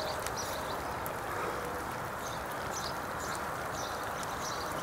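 Steady rush of floodwater flowing over a road, with birds chirping over it several times a second.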